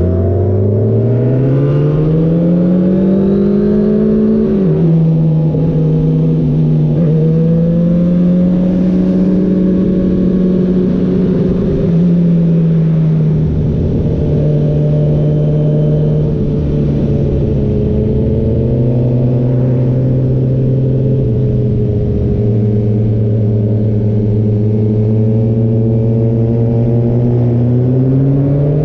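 Motorcycle engine heard from the bike carrying the camera: it accelerates with a rising pitch for the first few seconds, drops sharply at an upshift about five seconds in, then cruises at a fairly steady pitch with small dips, and climbs again near the end as the bike speeds up.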